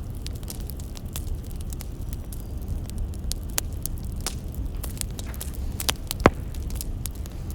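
Firewood burning, with irregular crackles over a low steady rumble and one louder pop about six seconds in.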